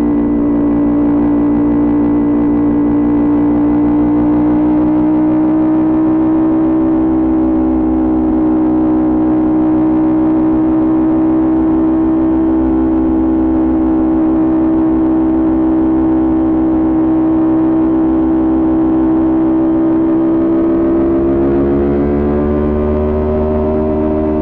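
Kawasaki Ninja 400 parallel-twin engine through an aftermarket Coffman exhaust, running at a steady cruise with its note nearly constant. Over the last few seconds the pitch rises as the bike accelerates.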